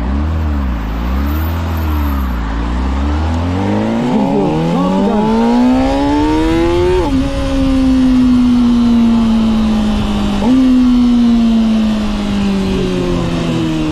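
2025 Honda CBR600RR's inline-four engine under way, rising in pitch for about three seconds as it accelerates, dropping sharply at an upshift, then sinking slowly as the bike slows on engine braking, with a short upward step in pitch about ten seconds in.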